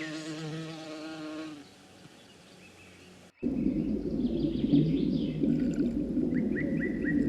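A bee buzzing with a wavering pitch that fades out about a second and a half in. After a short lull, a denser, lower buzz of many bees starts abruptly, with small birds chirping near the end.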